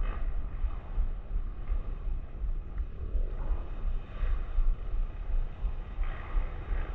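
Off-road motorcycle engine running while riding a trail, its note rising and falling, with heavy wind buffeting on the microphone.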